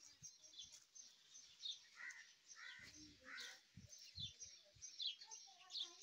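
Faint chirping of small birds: many short, high calls overlapping throughout, with a few louder, lower calls about two and three and a half seconds in.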